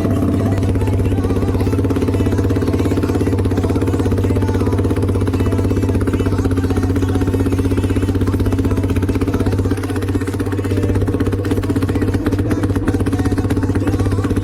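Yamaha R15 V4's 155 cc single-cylinder engine idling steadily and loudly through a bare bend pipe with no muffler fitted.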